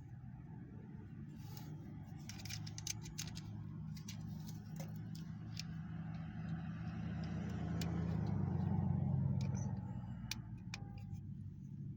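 Low hum of a motor vehicle's engine that swells to its loudest about eight to ten seconds in and then eases off. Over it come light clicks and rattles of plastic toy parts being handled.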